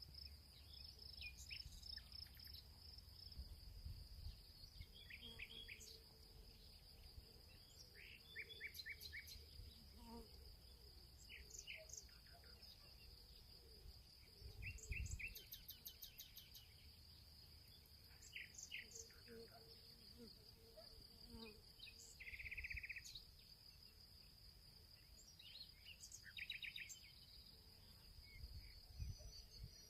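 Faint field ambience: a steady high insect trill, like crickets, runs without a break, while small birds give short chirps and brief call phrases every few seconds. A soft low rumble lies underneath.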